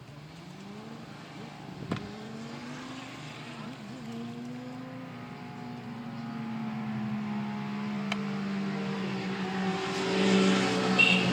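A motor engine running, its pitch rising over the first few seconds and then holding, and growing steadily louder as it approaches.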